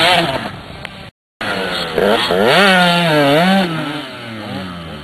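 Two-stroke motocross bike engines revving up and down, pitch rising and falling with the throttle; the sound breaks off briefly about a second in, then a bike revs hard again and eases off near the end.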